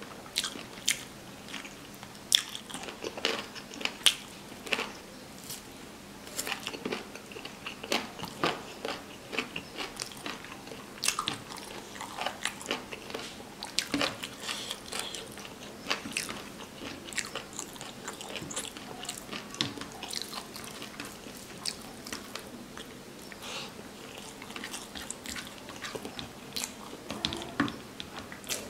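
Close-miked chewing of rice and curry eaten by hand, with frequent sharp, wet mouth clicks and crunches at an irregular pace.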